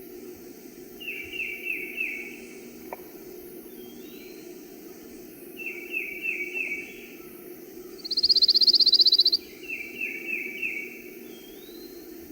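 Pine warbler singing one even-paced trill, about a second long, near two-thirds of the way through. Around it another bird repeats a short phrase of about four down-slurred whistles three times, with a few faint rising chips, over steady woodland background noise.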